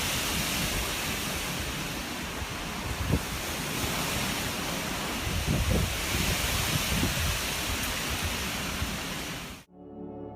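Steady rushing outdoor noise with irregular low rumbles, which cuts off abruptly near the end. Soft ambient music with held tones begins after the cut.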